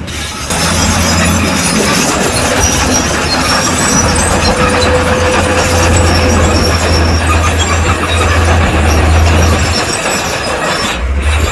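Crawler bulldozer working: diesel engine running under load with its steel tracks clanking and squealing. The sound is loud and steady.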